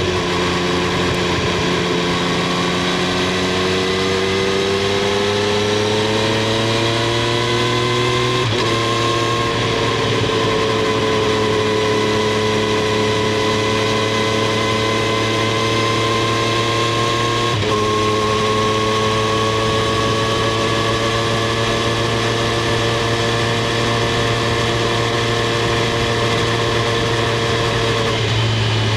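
Triumph Street Triple 765 R's three-cylinder engine and exhaust under way, its note rising gently and then holding fairly steady. The note breaks briefly twice, about nine and eighteen seconds in.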